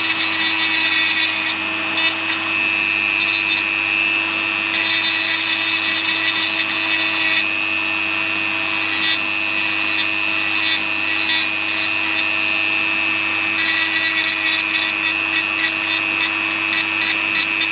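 Woodworking power tool running steadily with a constant hum, with spells of fast, fine chatter as it works the wood.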